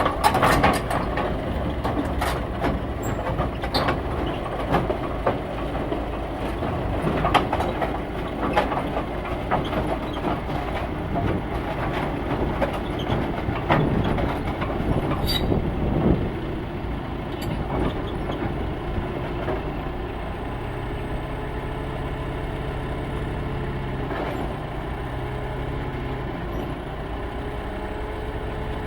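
Heavy vehicle engine running, with repeated clanks and knocks through the first half, settling into a steady engine hum for the second half.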